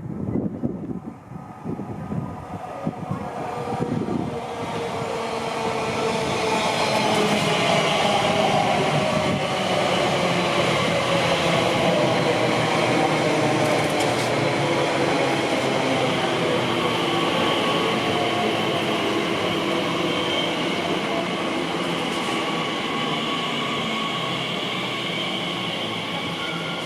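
Train rolling along the platform line: the rumble builds over the first several seconds and then holds. A motor whine above it slowly falls in pitch.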